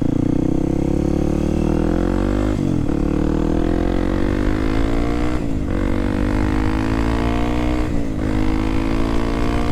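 Kawasaki KLX300SM supermoto's single-cylinder engine accelerating hard through the gears: the engine pitch climbs steadily, then drops at each of three upshifts, about 2.5, 5.5 and 8 seconds in.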